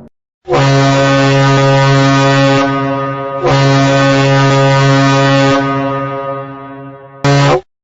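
Deep ship's horn sounding three blasts at one steady pitch: two long ones of about two seconds each, the second trailing off, then a short one near the end.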